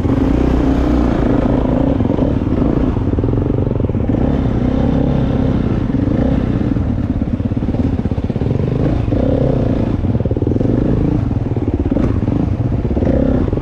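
Dirt bike engines running and revving continuously, the pitch rising and falling with the throttle.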